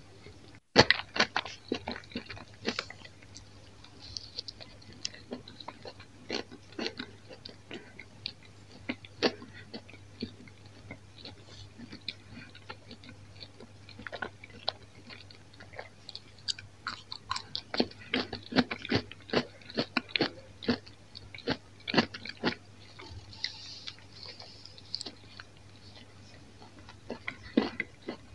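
Close-miked chewing with many sharp crunches and crackles as a sesame sandwich roll and a crisp toasted bread slice are bitten and chewed. The crunching comes densest a little past halfway.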